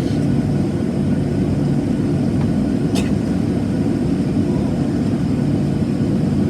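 Steady low rumble of a Boeing 737-700's CFM56-7B jet engines, with a short click about halfway through.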